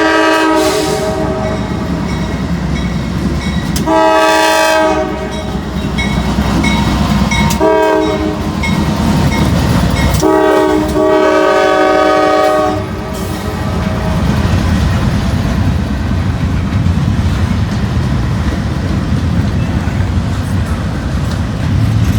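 Norfolk Southern intermodal train's locomotive horn sounding a multi-note chord in blasts: one ending just after the start, one about four seconds in, a short one near eight seconds and a long one from about ten to thirteen seconds, the long-long-short-long pattern of a grade-crossing signal. After the horn stops, the train keeps rolling past with steady wheel and rail rumble and clickety-clack.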